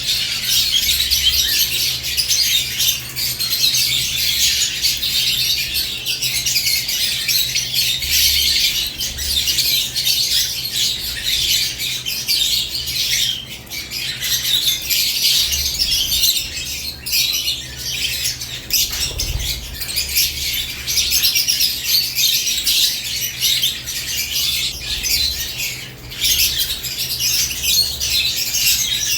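Lovebirds chirping and squawking continuously, a dense overlapping chatter of many high-pitched calls, with occasional wing flutters.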